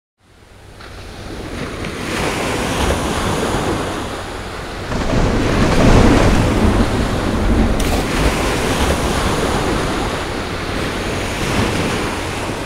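Stormy sea surf, a dense rush of crashing waves with a deep rumble under it. It fades in over the first two seconds, swells about five seconds in and eases off near the end.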